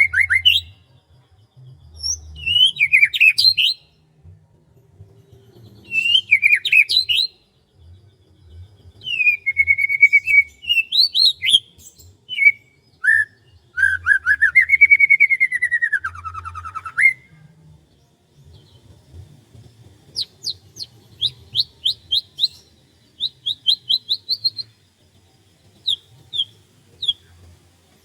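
Songbirds singing: varied whistled phrases of rising and falling notes for most of the time, then fast series of short, high notes repeated several times a second near the end.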